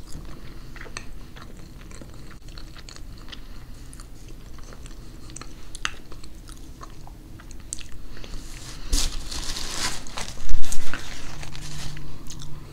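Close-miked chewing of a mouthful of pernil (roast pork) with rice and beans: many small wet mouth clicks and smacks, with a louder, noisier stretch about nine to eleven seconds in.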